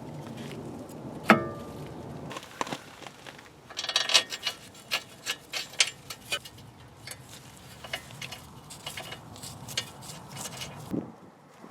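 Metal tools and parts being handled: a sharp, ringing clank about a second in, then a run of light clicks and clinks.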